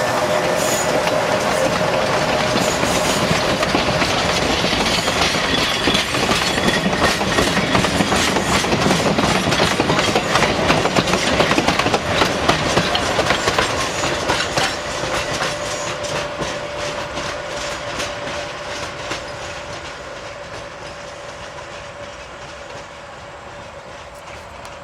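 Narrow-gauge diesel train rolling on the rails, its wheels clicking over the rail joints. It grows loudest about halfway through, then fades steadily as it moves away.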